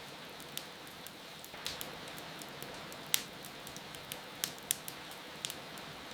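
Wood fire crackling, with irregular sharp pops, the loudest about halfway through, over a steady hiss of rain.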